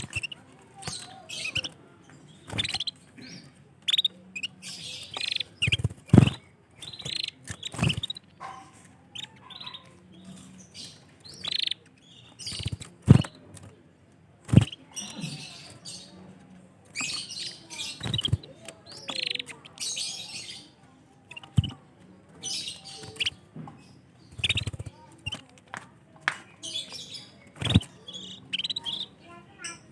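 Domestic canaries chirping with short, repeated high calls throughout, with several sharp knocks scattered among them.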